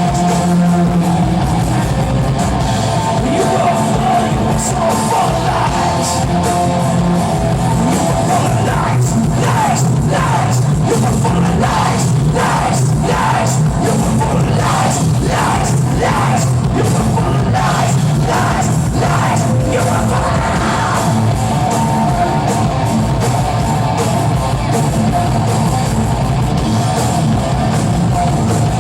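Live rock band playing loud, with a singer yelling through the middle of the passage.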